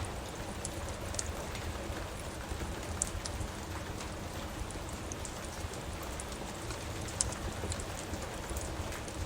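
Steady rain with a wood fire crackling over a low rumble. Scattered sharp pops, the loudest about three and seven seconds in.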